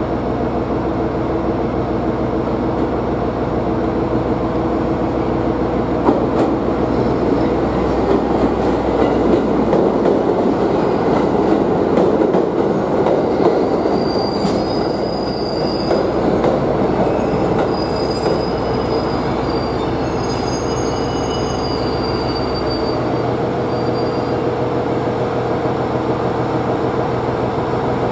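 JR East 701 series electric train rolling in along the platform, with steady running noise. Thin, high-pitched squeals come and go from about halfway through for several seconds.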